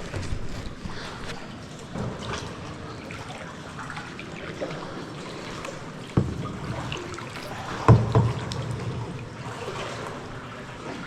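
Kayak paddle strokes in calm water, with water trickling off the blades, and a few hollow knocks, the loudest about eight seconds in.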